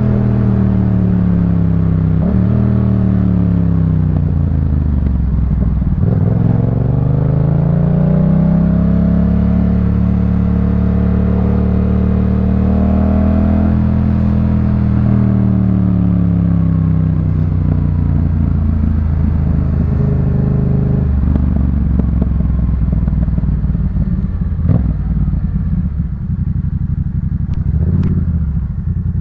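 Yamaha MT-07's 689 cc parallel-twin engine breathing through a Jeskap K4 full exhaust. The engine note dips, climbs steadily as the bike accelerates and holds, then falls away and settles into a low, steady run. A couple of sharp clicks come near the end.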